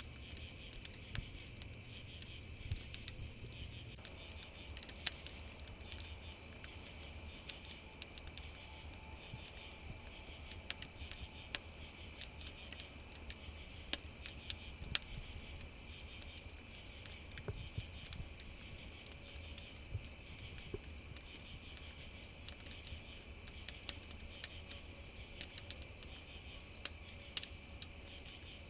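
Campfire crackling with irregular sharp pops, a few of them much louder, over a steady chorus of crickets.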